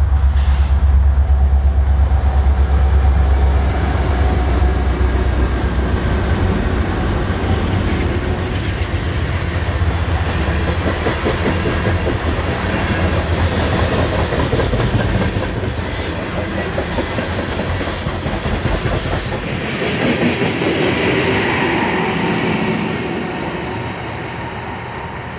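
Loaded coal train of open hopper cars rolling past: a deep rumble, strongest in the first several seconds, then the steady clickety-clack and rumble of the cars' wheels over the rail joints. Brief high-pitched wheel squeals come about two-thirds of the way through, and the sound fades near the end.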